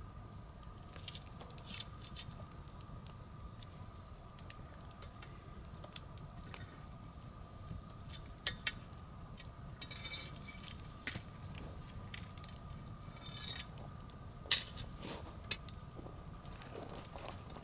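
Wood bonfire crackling, with irregular sharp pops and snaps, the loudest about two-thirds of the way in. Short hissing flares come about ten and thirteen seconds in.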